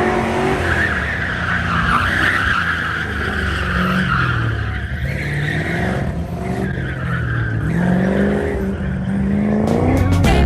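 Autocross car being driven hard, its engine revving up and down while the tyres squeal through the turns, the squeal easing briefly about halfway through before returning. Music begins right at the end.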